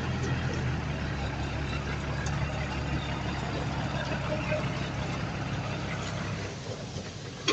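Heavy earthmoving machine's diesel engine running steadily, its engine note dropping away about six and a half seconds in.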